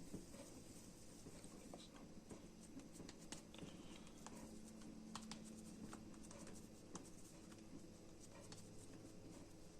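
Near silence: faint, scattered light ticks and scratches over a low steady hum.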